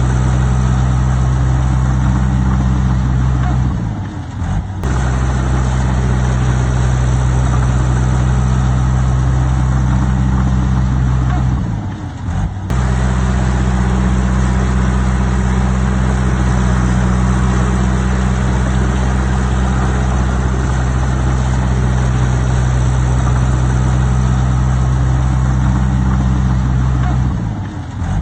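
Heavy diesel engine of earthmoving machinery running steadily at a constant pitch. The sound drops out briefly three times.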